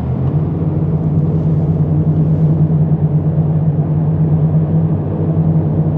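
Jet boat engine running hard with a steady drone. Its pitch steps up just as the sound begins, then holds, as the boat is throttled up to run a rapid.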